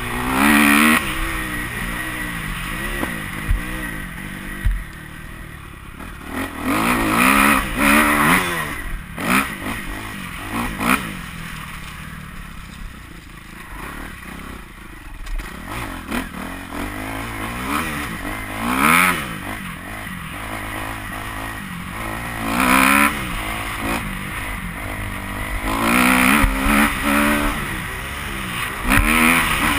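Kawasaki KX250F motocross bike's four-stroke single-cylinder engine, revved hard over and over as it is ridden round the track. The pitch climbs and drops with loud surges of throttle several times, fading between them as the bike moves off.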